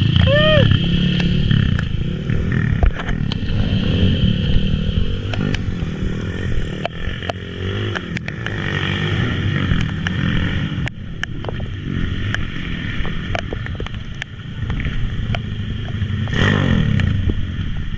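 Small underbone motorcycle engines running and revving on a motocross track, the pitch rising and falling with the throttle, over scattered sharp clicks and clatter.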